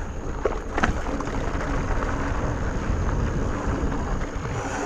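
Mountain bike rolling fast along a dirt trail: steady rumble of wind on the microphone and tyres on the ground, with a few clicks and rattles from the bike, one sharper click about a second in.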